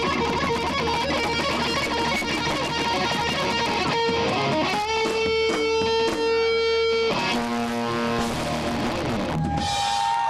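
Live band with electric guitar playing; about four seconds in the playing breaks into long held chords left ringing one after another.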